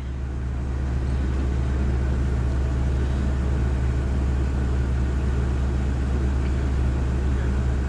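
A vehicle engine running steadily, a low even rumble that builds slightly in the first second and then holds.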